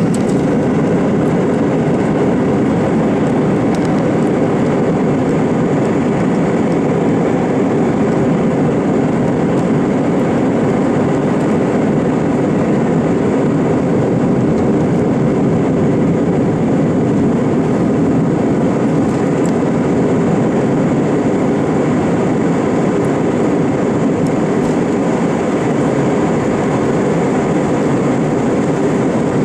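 Steady, loud engine and airflow noise heard inside the cabin of an Airbus A320 jetliner under high thrust during takeoff.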